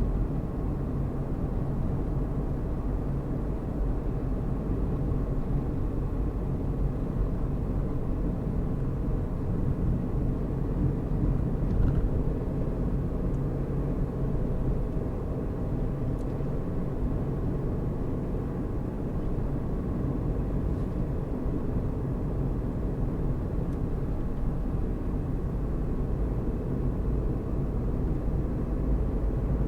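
Car driving at a steady speed: a constant low engine and road rumble, with a brief faint click about twelve seconds in.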